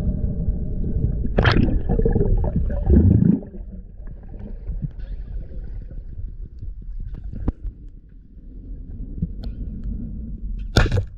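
Underwater sound picked up through a diving camera's housing: heavy low rumbling and gurgling water that drops off about three and a half seconds in, then a quieter rumble with scattered sharp clicks and a short loud burst near the end.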